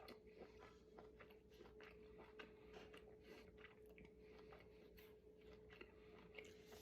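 Faint, irregular wet clicks of someone chewing and eating meat close to the microphone, over a steady faint hum.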